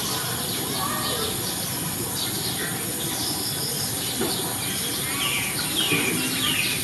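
Birds chirping: many short, high chirps falling in pitch, coming thickest about five seconds in, over a steady outdoor hiss.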